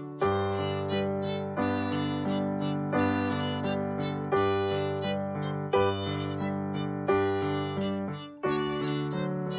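Orchestra with violins playing a slow passage of held chords. A new chord is struck with an accent about every second and a half and fades before the next.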